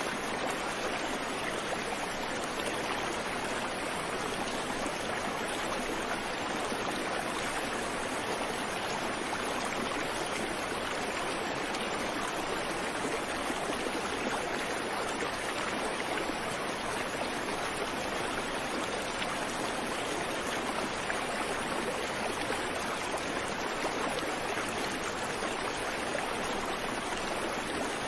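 A creek or small river flowing over stones, a steady, even rush of water with no birdsong.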